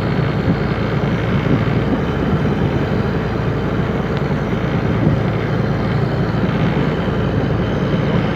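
A fishing boat's engine running steadily at a constant speed, a loud low drone with no change in pace.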